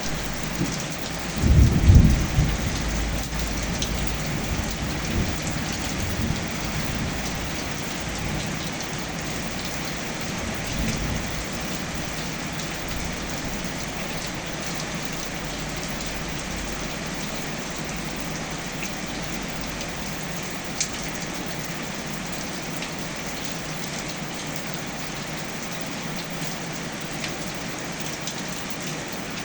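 Steady rain falling and pattering on surfaces, with a loud low rumble of thunder about two seconds in and fainter rumbles later.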